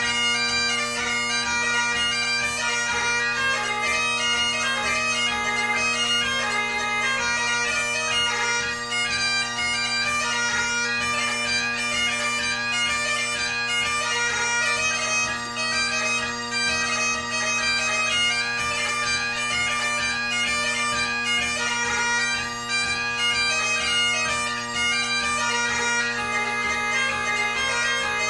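Great Highland bagpipe playing a light-music competition tune: quick, ornamented chanter melody over the steady, unbroken hum of the drones.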